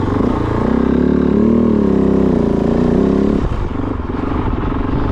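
Kove 450 Rally's single-cylinder engine pulling under throttle as the bike climbs a short rise, its pitch rising and wavering, then easing off about three and a half seconds in.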